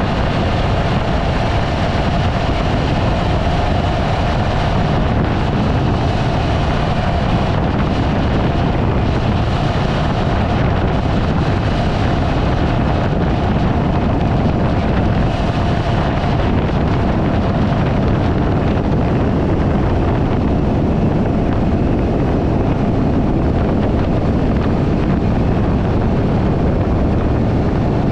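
Motorcycle on the move at a steady speed: the engine runs evenly under a heavy rush of wind on the microphone.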